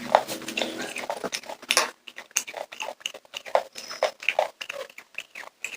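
Popcorn being chewed close to the microphone: irregular crisp crunches, several a second, with mouth sounds between them.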